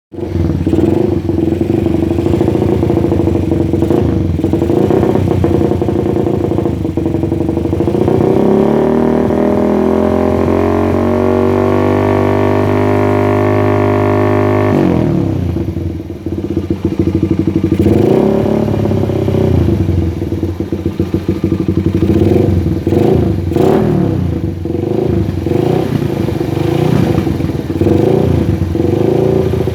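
Motorcycle engine running through a WRX aftermarket exhaust, idling, then revved up about eight seconds in and held high for several seconds before dropping back suddenly. It then gets a series of short throttle blips.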